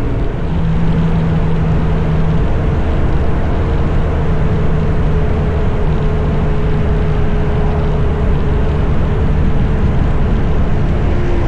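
Motorcycle riding at a steady speed: the engine runs evenly with a constant rush of wind and road noise.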